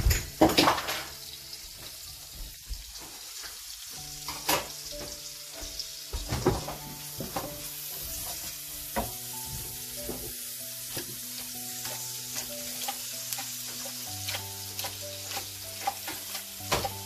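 Chopped onion and tomato sizzling in hot oil in a frying pan, with a wooden spatula stirring and knocking against the pan in scattered sharp clicks, loudest about a second in. Soft background music with held chords plays underneath.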